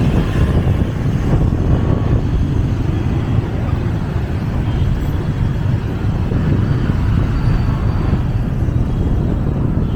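Steady low rumble of street traffic, mostly motorbikes, heard from a moving vehicle, with wind buffeting the microphone.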